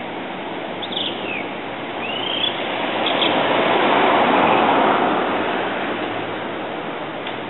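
Male blue rock thrush singing short, high phrases, some gliding downward, over steady city traffic noise. From about three seconds in, a passing vehicle swells louder than the song and then fades.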